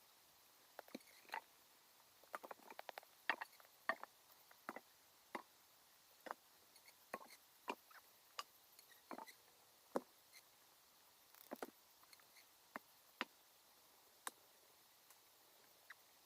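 Near silence broken by faint, irregular sharp ticks and taps, about one or two a second.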